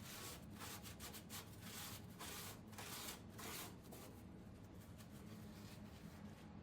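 Faint, irregular scraping and rubbing from hand work on a diesel engine being torn down, over a steady low hum from a garage air handler.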